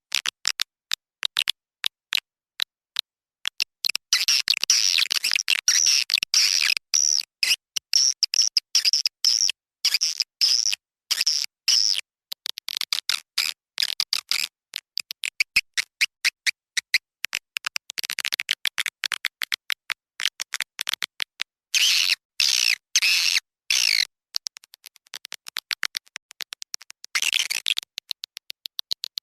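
Edible-nest swiftlet calls from a lure recording used in swiftlet farming: rapid high-pitched clicks breaking into dense bursts of twittering chirps. Sparse clicks for the first few seconds, then long runs of chirping, thinning out near the end.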